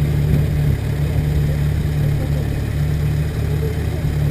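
Motorcycle engine running at a steady, unchanging speed while riding, with wind rumble on the microphone.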